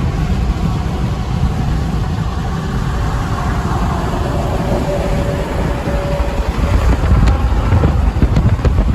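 Heavy truck driving past on the road, a steady low engine and tyre rumble with a faint whine that drops a little in pitch midway as it goes by.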